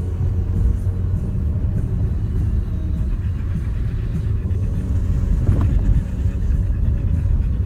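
Renault Duster 4x4 driving off-road: a steady low rumble of engine and tyres over rough ground, with a brief knock about five and a half seconds in.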